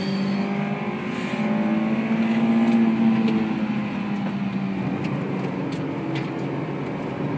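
Honda S2000's inline-four engine heard from inside the cabin, pulling hard. Its note climbs a little and grows louder for about two seconds, then drops back about three seconds in and runs lower and steadier.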